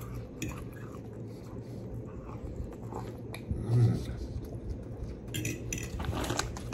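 A man chewing a mouthful of sauced, breaded orange chicken and rice close to the microphone, with soft wet mouth clicks and a short hum of his voice about four seconds in.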